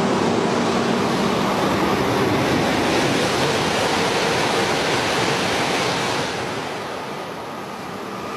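E5 series Shinkansen bullet train passing at speed: a loud, steady rush of air and wheels on rail that fades over the last two seconds or so as the train goes by.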